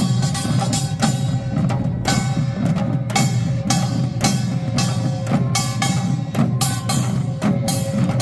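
Korean pungmul percussion band playing a fast, dense rhythm: rapid metallic gong strokes clanging over drums, with gong tones ringing underneath.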